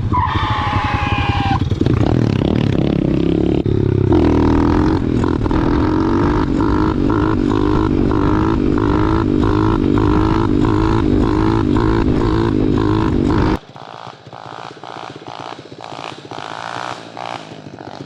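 Pit bike's single-cylinder engine revving on a trail climb, its pitch rising and falling with the throttle. About 13 seconds in it cuts off suddenly to a quieter engine note that climbs steadily.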